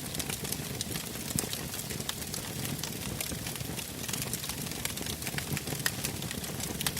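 Wood fire burning in a fireplace, crackling with irregular sharp pops over a steady hiss of flame.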